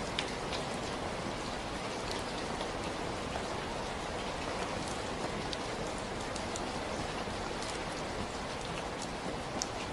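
Steady rainfall: an even hiss of rain with scattered individual drops ticking on a surface now and then.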